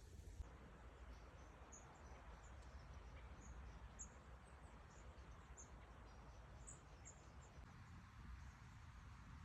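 Faint rural outdoor ambience: scattered short, high chirps over a steady low rumble.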